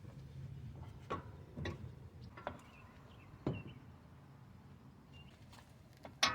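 A few light, separate knocks and clicks from hands handling the CV axle and suspension parts while tying the axle up with a rope.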